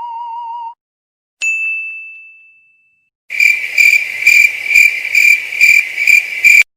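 A run of meme sound effects. The tail of a wavering electronic tone cuts off under a second in, then a single bright ding rings out and fades. Then comes a cricket-like high chirping that pulses about two and a half times a second and cuts off abruptly near the end.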